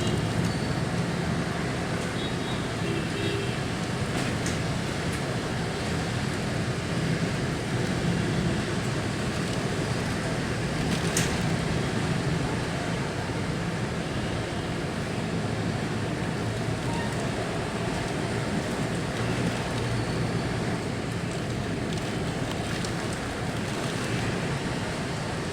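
Steady rush of a rainstorm mixed with road traffic, with a single sharp click about eleven seconds in.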